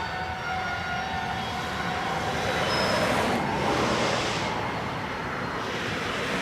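A train passing close by: several steady high tones fade out in the first two or three seconds, then the rushing, rattling noise of the cars rolling past swells and eases.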